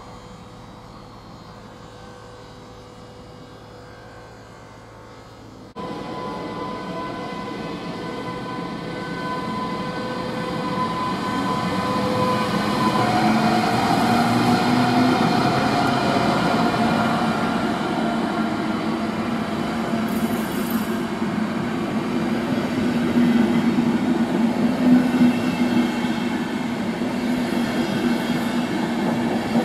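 Electric locomotive hauling an Intercity train past on the station track, with a steady whine from the locomotive and rumbling wheels on the rails. The sound steps up suddenly about six seconds in and grows louder as the locomotive draws level.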